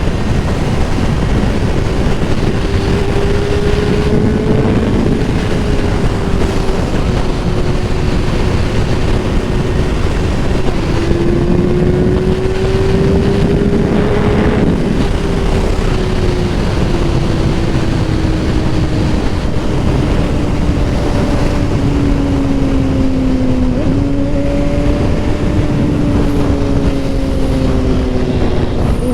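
Kawasaki ZX6R 636's inline-four engine running at a steady highway cruise, its pitch drifting slowly up and down, under heavy wind noise on the helmet microphone.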